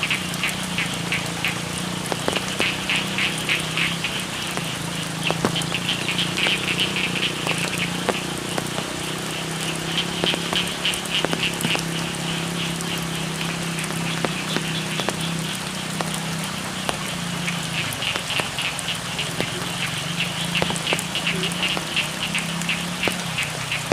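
A chorus of frogs calling in rapid, pulsing trills that swell and fade in waves over steady rain, with scattered drip ticks and a low steady drone beneath.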